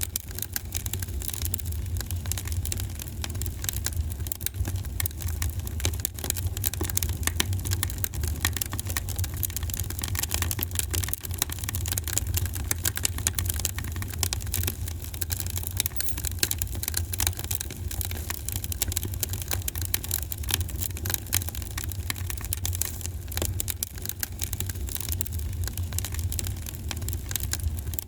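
Wood fire burning in a fireplace: dense, irregular crackling and small pops over a steady low rumble of the flames.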